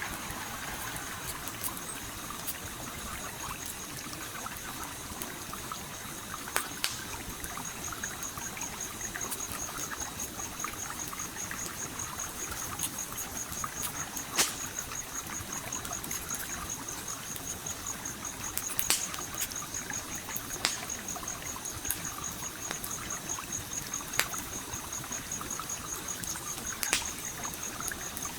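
Stream flowing steadily, with a campfire crackling over it in sharp, scattered pops every few seconds. A high, fast-pulsing tone comes in about seven seconds in and keeps on.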